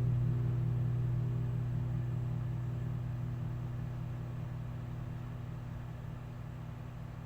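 Low hum of a Malay gamelan's large gong ringing on and fading slowly away after the final stroke of the piece.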